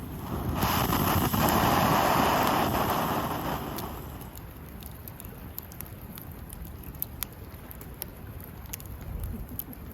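Wood campfire crackling with scattered sharp pops and snaps. About half a second in, a loud rushing whoosh swells up, holds for about three seconds and fades away.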